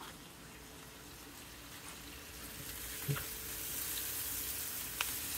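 Sliced mushrooms and onions sizzling in a nonstick skillet while a silicone spatula stirs them; the sizzle grows louder after about two seconds, with a couple of light taps of the spatula against the pan.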